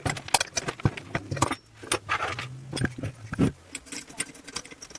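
Hand tools clicking and clinking against a small two-stroke motorized-bicycle engine as it is taken apart: a quick, uneven run of sharp metallic clicks and knocks.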